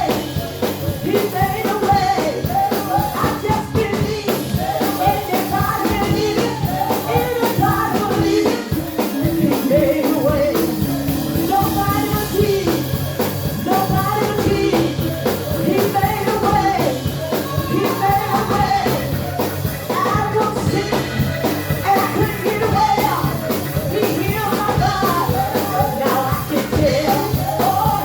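Church praise music: voices singing over a band with a drum kit keeping a steady beat.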